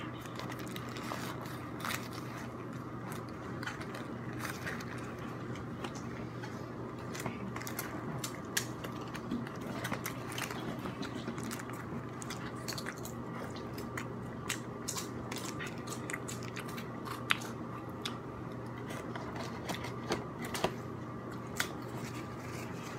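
Close-up eating of a torta de asada: biting and chewing with many short, irregular mouth clicks and smacks, over a faint steady hum.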